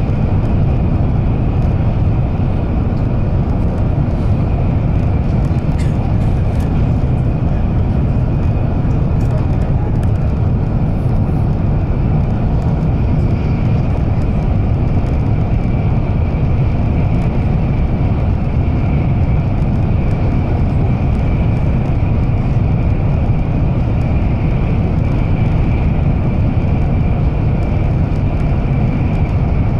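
Inside the passenger cabin of an N700-series Shinkansen Kodama train running at speed: a steady low rumble, with a faint steady high whine that grows a little stronger about halfway through.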